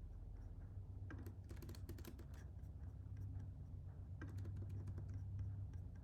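Computer keyboard keys clicking in two short flurries, one about a second in and another around four seconds in, over a steady low hum.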